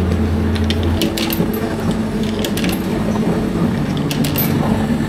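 Self-serve milk vending machine humming, its low hum cutting off about a second in, with fainter machine tones and scattered clicks and clinks of handling throughout.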